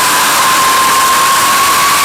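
Ilyushin Il-86 Kuznetsov NK-86 turbofan engine running during a ground run-up: a loud, steady rush with a whine that rises slightly in pitch.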